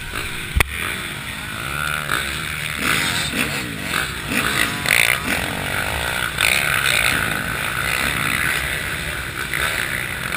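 Several motocross dirt bikes revving on the track, engine pitches rising and falling and overlapping as riders accelerate and shift. A single sharp knock about half a second in.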